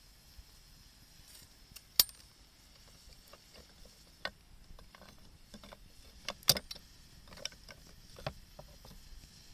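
Wood fire crackling: two loud sharp pops, about two seconds in and again past the middle, among scattered smaller crackles.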